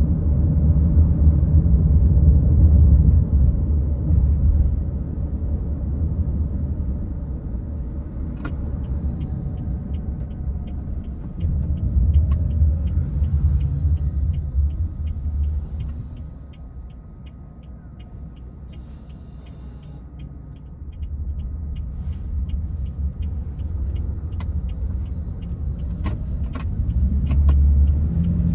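Car road and engine rumble heard from inside the cabin while driving. It eases off about halfway through as the car slows, then builds again. From about a third of the way in, a turn-signal indicator ticks steadily, two to three ticks a second.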